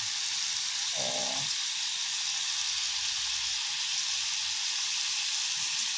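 Chicken pieces sizzling in a pan of hot oil and juices: a steady, even hiss.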